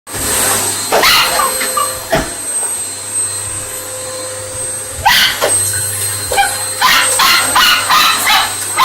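A vacuum cleaner runs with a steady hum while a dog barks at it. There are a few barks in the first two seconds, then rapid barking from about five seconds in.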